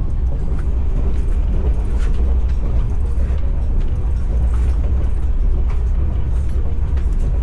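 Passenger train running on the track, heard from inside the coach: a steady low rumble of wheels on rails, with scattered light clicks and knocks.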